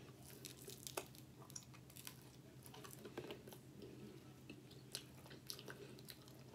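A person chewing a bite of oven-baked onion ring close to the microphone, with faint, scattered crunches and wet mouth clicks. The ring has cooled and is not as crunchy as it was.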